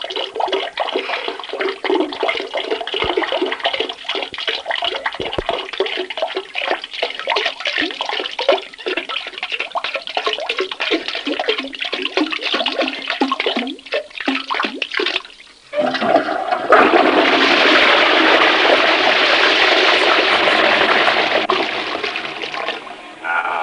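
A stream of water trickling and splashing irregularly into a toilet bowl for about fifteen seconds, a sound effect for a man urinating. After a brief pause a toilet flushes with a steady rush that tails off over about six seconds.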